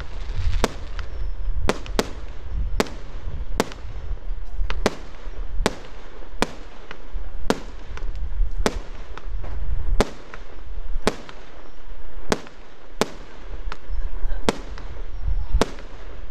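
Fireworks firing shot after shot from one launch point, as a multi-shot barrage: a sharp bang about once a second, over a steady low rumble.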